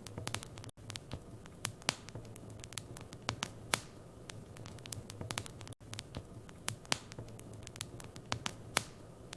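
Wood fire crackling in a fireplace: irregular sharp pops and snaps over a low steady hum, with two very brief dropouts.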